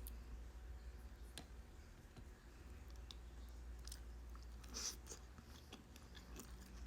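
Faint chewing of a mouthful of sushi roll, with scattered soft mouth clicks and a slightly louder moment about five seconds in, over a steady low hum.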